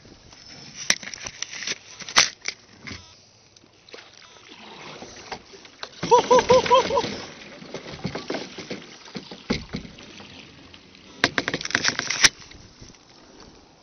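Kayak moving through floating ice, with paddle splashes and ice knocking and scraping against the hull. There are sharp knocks about a second and two seconds in, a short wavering pitched sound about six seconds in, and a dense run of clicks near the end.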